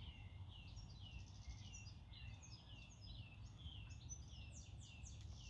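Small songbirds singing: a busy, unbroken run of short, quick chirps, many of them falling in pitch, over a faint low rumble.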